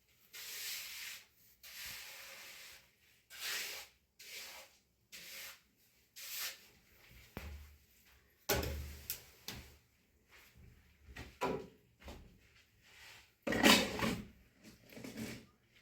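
A series of short scraping or brushing strokes, then heavier knocks and clatter, the loudest about eight and a half and thirteen and a half seconds in.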